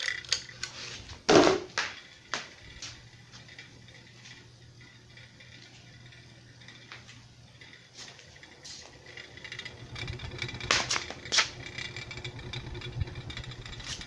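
A 42-inch Harbor Breeze Vector Elite ceiling fan, built by Westinghouse, running on medium speed with a steady low motor hum and a little rattling. A loud knock comes about a second in, with a few lighter clicks soon after and again near the end.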